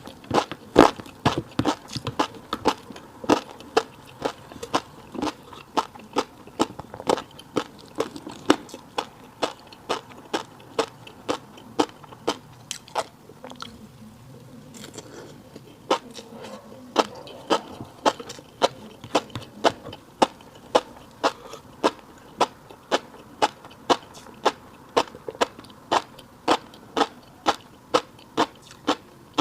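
Close-up chewing of a fish roe and rice bowl: a quick run of crisp clicks and pops, about two to three a second, as the roe is bitten and crushed. The clicks thin out briefly around the middle, then pick up again.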